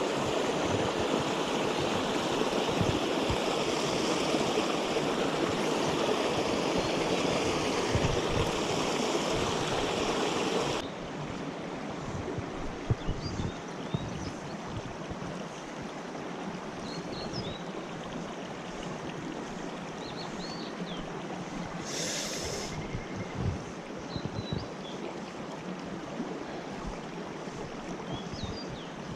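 Mountain headwater stream flowing steadily over rocks, its water running low. The flow is louder for about the first eleven seconds, then drops suddenly to a quieter rush with a few faint high chirps.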